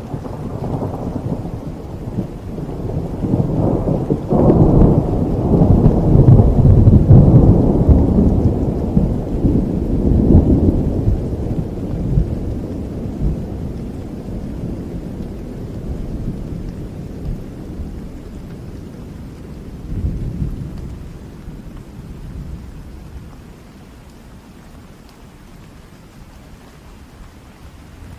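A long roll of thunder that swells to its loudest a few seconds in and slowly rumbles away, with a smaller rumble again about two-thirds of the way through, over steady rain.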